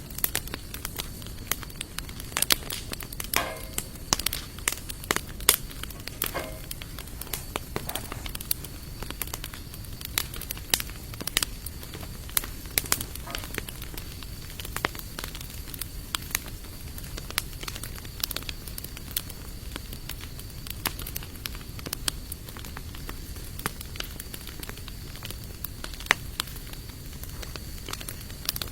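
Hardwood campfire of sawtooth oak and other broadleaf logs crackling, with frequent sharp pops. There are a couple of brief squeaks in the first few seconds and a faint steady high tone underneath.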